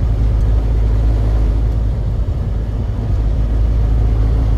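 Truck driving along: a steady low engine and road rumble.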